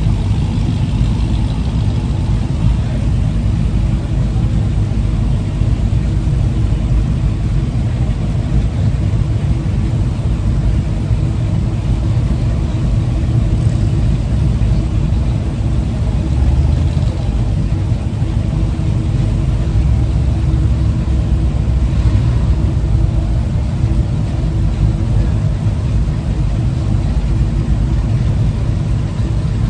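A vehicle engine running steadily at low revs, a continuous low-pitched drone that holds even throughout.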